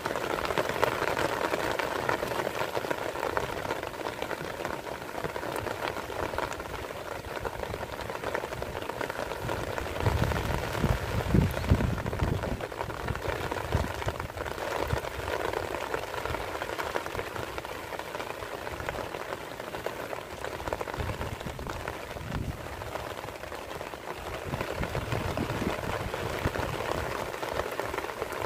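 Steady rain falling, an even dense hiss of drops with no let-up. A low rumble swells briefly about ten seconds in.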